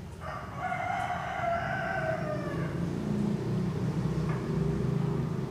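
A rooster crows once, one long call that falls in pitch at its end, then a low engine rumble, as of a passing vehicle, builds up and carries on.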